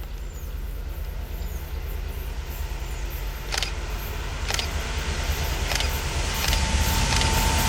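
Indian Railways WDG3A ALCo diesel locomotive approaching: a low, steady engine rumble that grows louder throughout, with a few sharp clicks and a thin steady whine coming in near the end.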